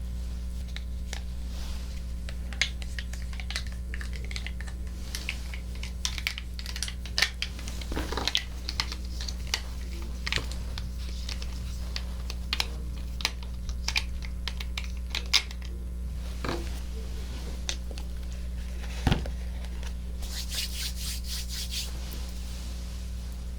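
Irregular close-up clicks, taps and crackles of ASMR triggers at a 3Dio binaural microphone, over a steady low hum. A denser high crackling comes near the end.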